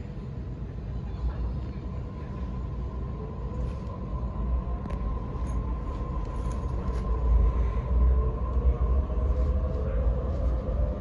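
Waratah A set electric train's IGBT-VVVF traction inverter and motors whining, several tones rising in pitch together from about three seconds in as the train accelerates, over a steady low rumble of the running train.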